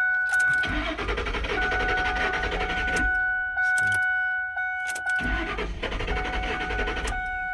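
Starter cranking the Ford Expedition's 5.4-litre V8 in two spells of about two seconds each without the engine catching, over a steady electronic warning tone. It is a crank-no-start, which the owner puts down to fuel delivery: the fuel pump or its relay.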